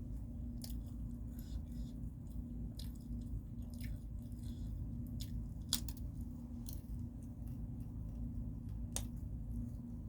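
Close-miked sounds of a person eating: chewing and mouth smacks with scattered sharp clicks, the loudest a little before six seconds in and another near nine seconds, over a steady low hum.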